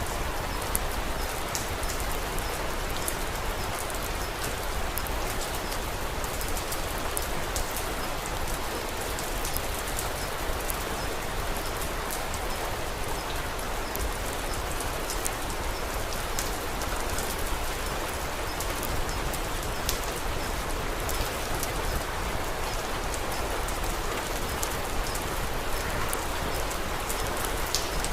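Steady rain falling, an even hiss with a dense scatter of small, sharp drop ticks.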